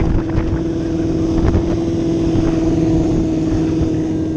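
Small motorcycle engine running at steady revs, one constant pitch with no change in throttle.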